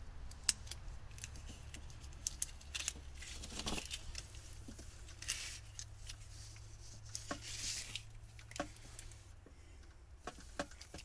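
Wire cutters snipping old boat wiring, with scattered sharp clicks and a few short rustling scrapes as the wires are pulled out.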